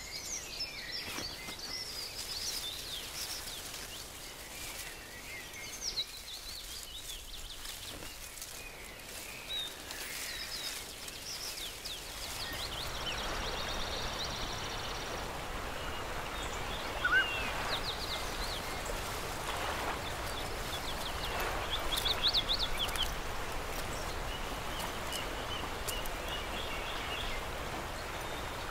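Birds chirping in short rapid series, several times, over a steady background hiss that gets louder about halfway through.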